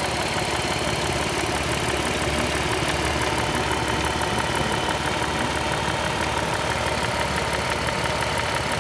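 2007 Dodge Charger's 3.5-litre V6 engine idling steadily, with a faint steady whine over the even running.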